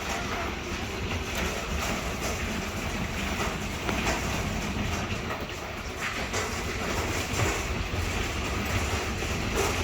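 Hail and wind from a severe thunderstorm beating on the house: a dense, steady roar dotted with many sharp impacts, growing a little louder near the end.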